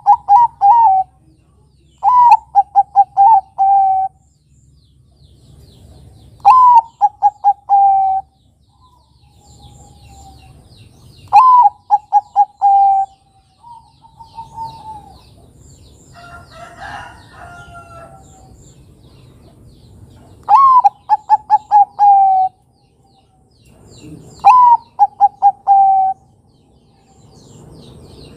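Zebra dove (perkutut) cooing: six repeated song phrases, each a rising opening note, a quick run of short coos and a drawn-out final note, with pauses of a few seconds between them. A short, different call breaks in near the middle, and small birds chirp faintly in the background.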